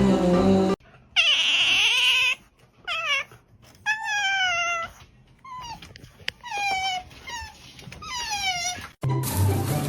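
A dog whining in about five high cries, each falling in pitch, with short quiet gaps between them; the first is the loudest and roughest. Background music before and after.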